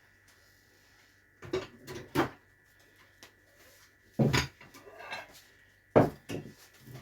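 A few separate knocks and clatters of objects being handled and set down, the loudest about six seconds in.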